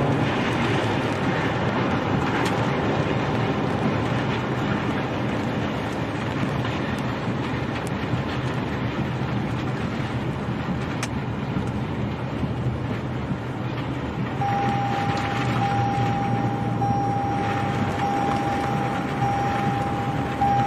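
Landslide debris crashing down onto a road, a loud continuous rumble like a passing train. About two-thirds of the way through, a steady high tone like an alarm or held horn joins it and holds.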